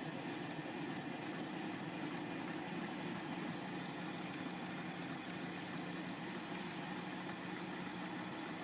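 Bedini-style pulse motors spinning a heavy, weighted magnet rotor up to speed: a steady whir and hum with faint, fine ticking.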